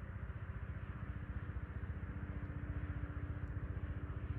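A vehicle engine running with a fast, even low pulse; a steady hum joins in under a second in.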